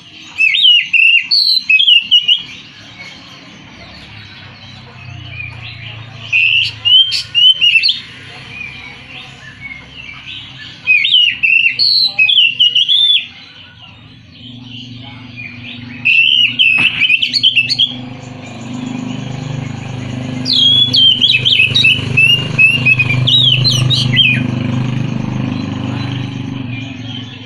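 Oriental magpie-robin (kacer) singing in five bursts of quick, rising and falling whistled phrases, each a second or two long; the last and longest comes about 20 seconds in. A low steady hum runs underneath, strongest in the second half.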